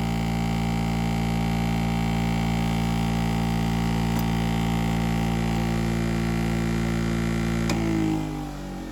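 Electric sharpening machine's motor running with a steady hum, then switched off with a click near the end and winding down, its pitch falling. The machine is stopped to change the abrasive, from 400 to 1200 grit.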